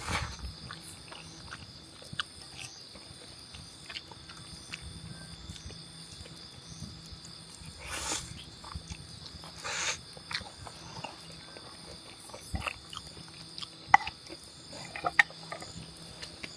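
Someone slurping and chewing udon noodles, with a few short slurps several seconds apart and some small clicks near the end. Insects chirp steadily throughout.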